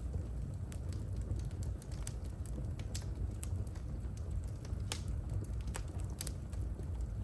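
Wood-burning fire in a home fireplace crackling: irregular sharp pops and snaps over a steady low rumble.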